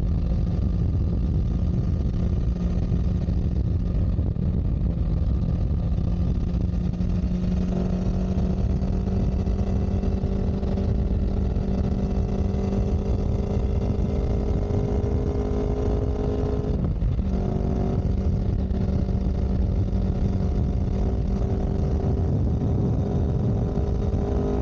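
A vehicle engine running steadily under a heavy low rumble. Its note creeps up a little, dips briefly about two-thirds of the way through as if the throttle is eased or a gear is changed, then picks up again.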